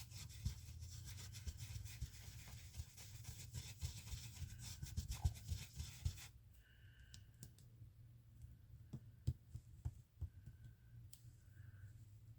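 Ink being blended onto paper through a stencil with a blending tool: a quick run of soft, scratchy rubbing strokes that thins out about halfway through, leaving a few light ticks.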